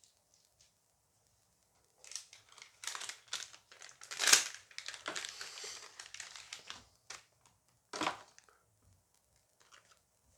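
Booster pack wrapper being torn open and crinkled: a run of crackly rustling, with the loudest tear about four seconds in and another short crinkle about eight seconds in.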